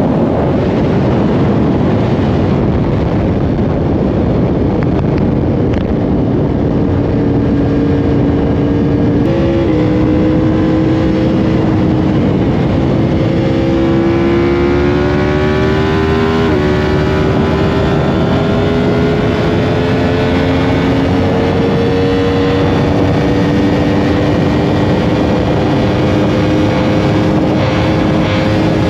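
Yamaha R1 sport bike's inline-four engine pulling hard at speed, heard from on the bike under heavy wind rush. The engine note climbs, drops sharply with a gear change a little past halfway, then rises slowly through the rest.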